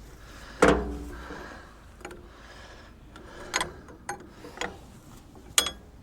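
Handling of tools and metal hydraulic fittings on a backhoe: a few sharp metallic clanks and knocks. The loudest comes about half a second in, with a brief ring, and smaller ones follow a few seconds later.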